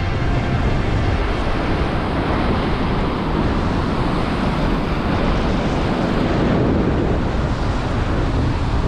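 Strong wind buffeting the microphone over breaking surf: a steady rushing noise.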